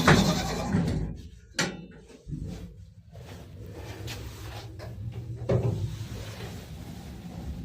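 Doors of a Shcherbinka Lift Plant (ЩЛЗ) elevator closing: a loud bang at the start, then sharp clunks about a second and a half and about five and a half seconds in, over a steady low hum.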